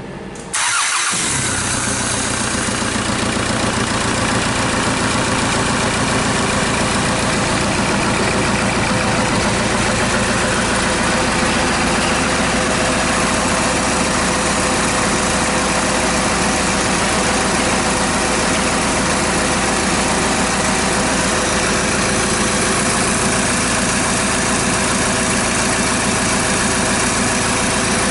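D4CB four-cylinder diesel engine, out of the vehicle on a test run, starting abruptly about half a second in and then idling steadily.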